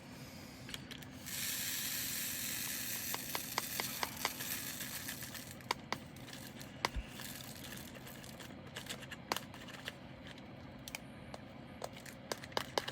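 Small plastic bag crinkling for a few seconds as leftover resin diamond-painting drills go into it, followed by scattered light clicks and taps of the drills and their containers being handled.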